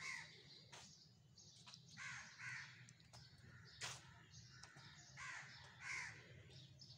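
Birds calling outdoors: about five short calls, partly in pairs, with a few sharp clicks, the loudest about four seconds in, over a faint low hum.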